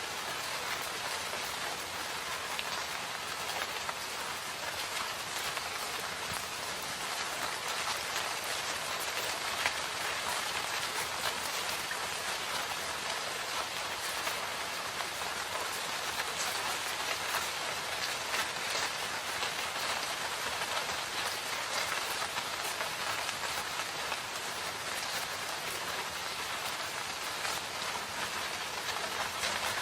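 Steady rain falling in a forest: an even, unbroken hiss with many small drop ticks scattered through it.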